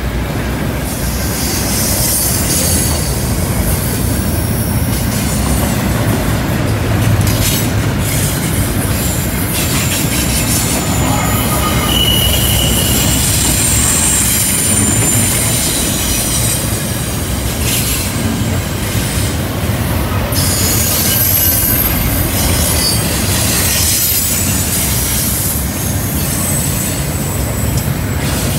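Double-stack container well cars of a freight train rolling past on a curve: a steady rumble and clatter of steel wheels on rail. High-pitched wheel-flange squeals come and go over it as the wheels grind through the curve.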